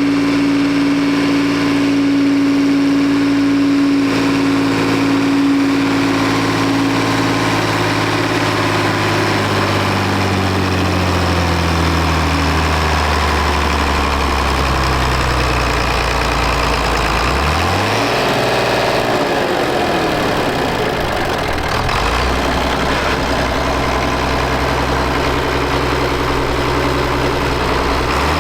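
Tractor engine running, its pitch sinking slowly for about seventeen seconds as it slows, then rising sharply and settling into a steady run.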